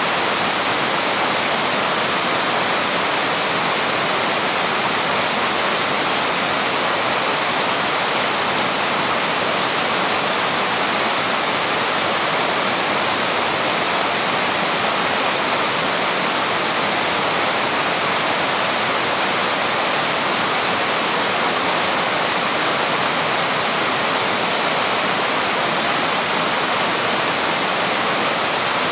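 A waterfall's water pouring and splashing as a steady, even rush, strongest in the upper-middle range, with no changes or separate events.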